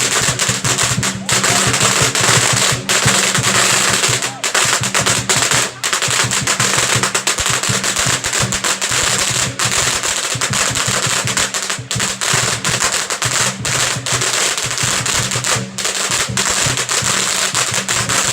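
Strings of firecrackers going off in a dense, rapid crackle of pops, with a few brief lulls.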